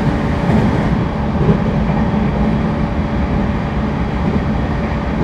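Interior running noise of a JR East E231 series 1000 commuter train at speed: a steady low rumble of wheels on track, with a few faint steady tones in it.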